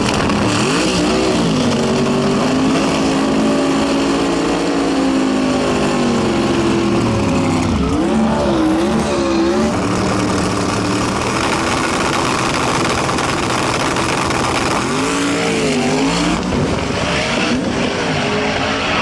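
High-horsepower drag race car engines at full throttle on a manual-transmission pass, the engine note climbing and dropping several times as it is shifted through the gears.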